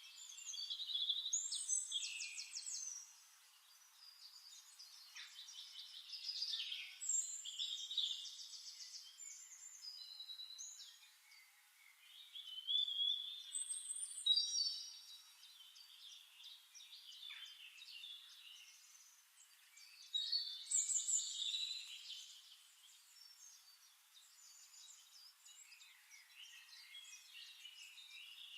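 Several songbirds singing and chirping, with overlapping trills and rapid high chirps that come in louder bursts several times, separated by quieter stretches.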